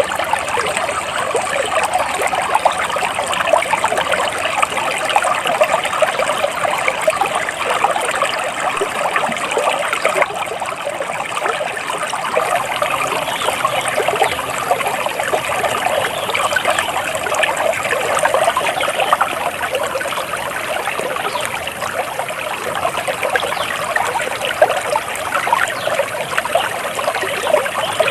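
Shallow stream of water trickling and burbling steadily.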